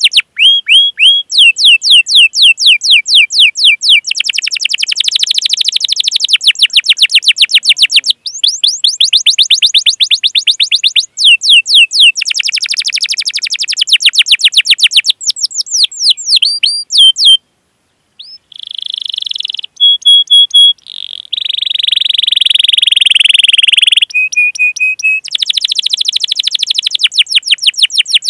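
Domestic canary singing a long song of fast repeated 'cuit cuit' chirps and rolling trills, with a brief pause about two-thirds of the way through.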